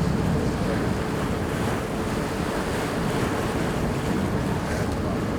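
Tour boat underway: steady wind noise on the microphone over the rush of water along the hull and a low, even engine drone.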